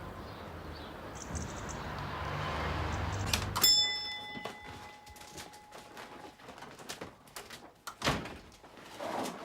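A low rumble that builds for about three seconds, then a metallic clang whose ringing tone dies away over a couple of seconds, followed by scattered knocks and a louder thud near the end.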